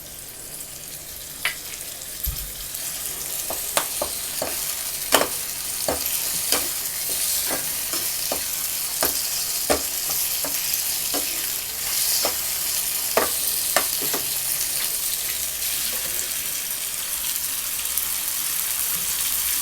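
Chicken liver frying in a pan, just joined by ginger-garlic paste, sizzling steadily while a spoon stirs it. The spoon knocks and scrapes against the pan about once a second, mostly in the first two-thirds.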